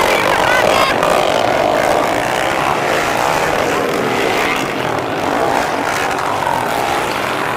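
Several underbone motorcycle engines running hard at high revs, their overlapping notes rising and falling in a dense, steady drone.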